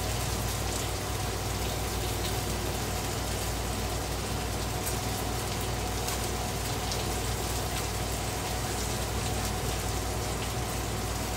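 Ground beef patties and onions sizzling steadily on a Blackstone flat-top griddle, with a steady low hum underneath.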